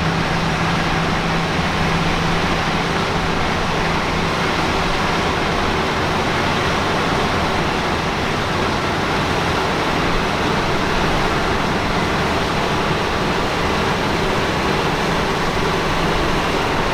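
Tractor engine running steadily under load, a loud even rush of machine noise with a low hum.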